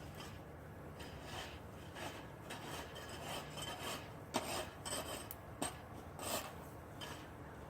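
Ice being scraped and chipped: irregular rasping strokes, with a few sharp cracks in the second half.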